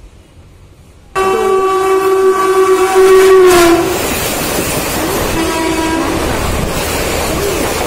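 Indian Railways express train running through a station: about a second in the locomotive's horn blares for nearly three seconds, dropping in pitch as it passes, then gives a shorter second blast. Under it the coaches rumble and clatter by steadily.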